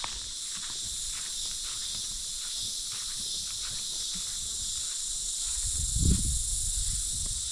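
Steady high-pitched insect chorus droning throughout, with faint scattered clicks and a low rumble about six seconds in.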